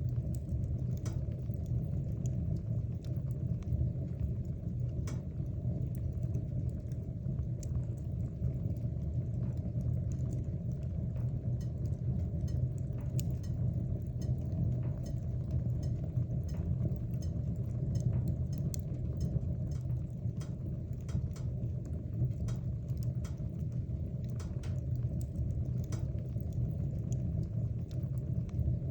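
Wood fire burning in a fireplace: a steady low rumble of flame with frequent small crackles and pops from the burning wood.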